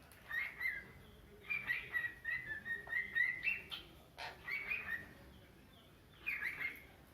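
Cockatiel chirping in four bursts of quick notes, the longest a run of rapid chirps lasting about two seconds.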